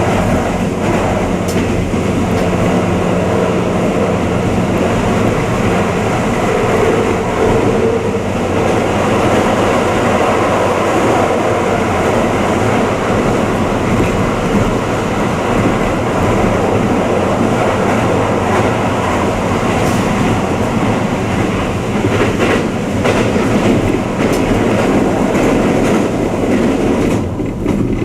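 Twilight Express Mizukaze, a JR West Kiha 87 series diesel-electric hybrid train, running, heard inside a guest compartment: a steady rumble with a low hum and occasional clicks of the wheels over the rail joints.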